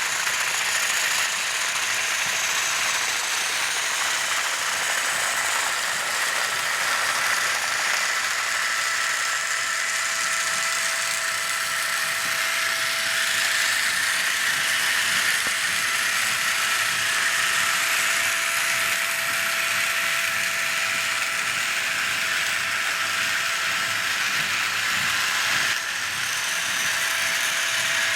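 Battery-powered motorized toy train running along its track: a steady whirring gear-motor whine with a light mechanical rattle.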